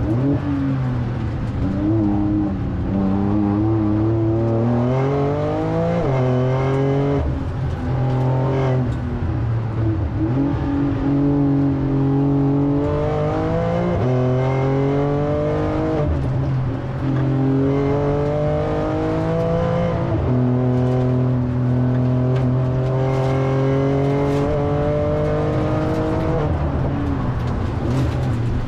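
2022 Porsche 911 Turbo S's twin-turbo flat-six heard from inside the cabin under hard acceleration. The engine note climbs in pitch and then drops back sharply at each gearshift, over and over.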